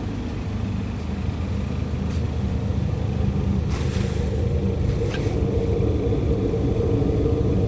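2008 Saturn Astra XR's 1.8-litre four-cylinder engine running steadily, growing a little louder after the first couple of seconds, with a brief hiss about four seconds in.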